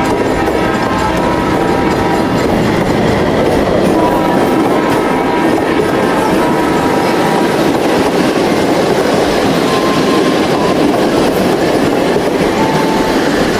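Train sound: a train running with steady rail clatter.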